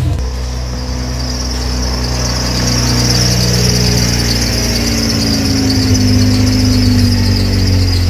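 Saturn sedan's engine running at low speed as the car reverses slowly into a garage, the engine note rising and falling a little, with a steady high-pitched squeal over it throughout.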